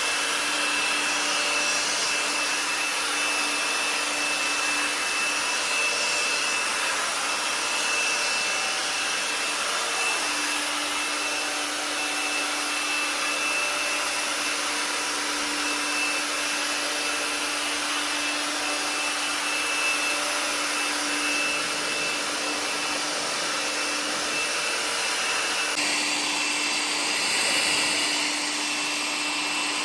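Electric fan motor running steadily, air rushing with a constant high whine and a lower hum, the sort of machine used to vacuum or blow-dry a car; its sound shifts slightly about 26 seconds in.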